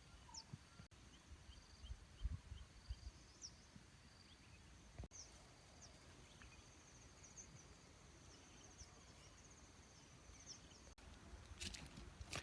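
Near silence: faint outdoor ambience with a thin, high insect trill and a short series of soft chirps. A few soft low thumps come about two seconds in, and light rustling starts near the end.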